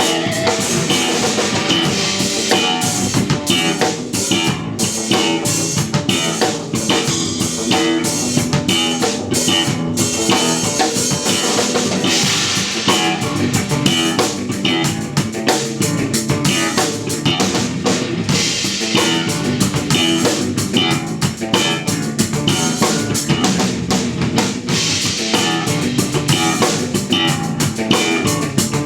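Live instrumental post-rock played by a trio of electric guitar, electric bass and drum kit, with the drums driving a steady beat throughout.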